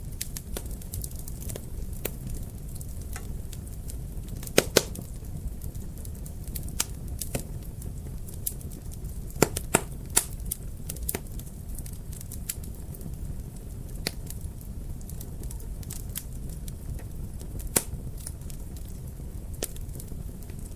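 Wood fire in a fireplace crackling, with irregular sharp pops over a steady low rumble of the flames; the loudest pops come about four and a half seconds in, around nine to ten seconds in, and near eighteen seconds.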